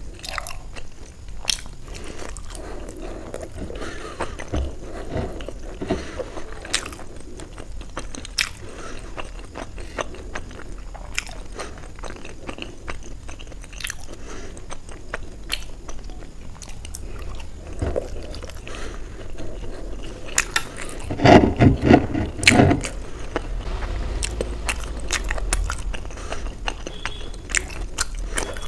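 Close-up sounds of a person chewing steamed paneer momos dipped in chili chutney: soft chewing with many short mouth clicks and smacks, and a louder stretch of sounds about three-quarters of the way through.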